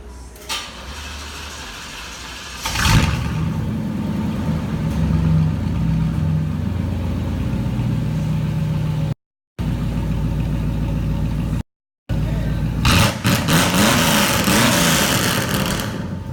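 1993 Chevy Caprice's V8 with a straight-pipe exhaust starting up about three seconds in, then running with a steady low note. Near the end it is revved a few times, the pitch swinging up and down. The sound cuts out completely twice, briefly.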